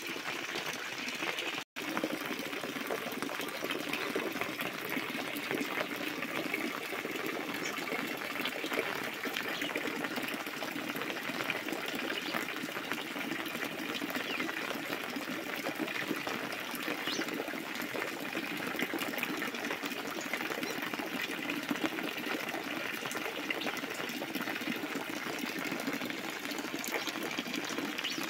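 Heavy rain falling steadily onto the water of a full tank, with a stream of roof runoff splashing into it. The sound briefly cuts out about two seconds in.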